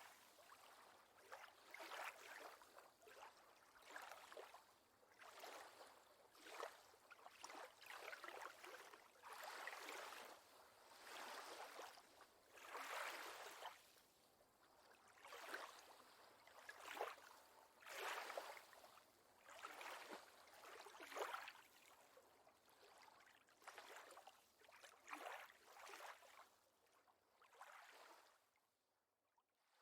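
Water lapping and splashing gently in small, irregular surges every second or two, fading out near the end.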